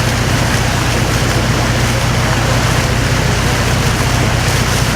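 Harbor tour boat under way, its engine running with a steady low hum beneath constant wind and water noise.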